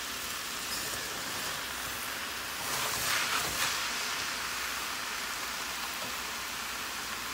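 Shredded cabbage and potato sizzling steadily as they dry-roast in a stainless-steel pan, the water already cooked off. A spatula stirs through them, louder for a moment about three seconds in.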